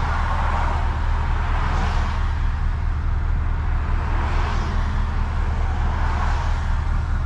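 Cabin sound of a tuned, straight-piped Toyota GR Supra with a 3.0 turbo inline-six cruising at a steady speed: an even low exhaust drone under road and tyre noise. A few brief swishes come and go about two seconds apart.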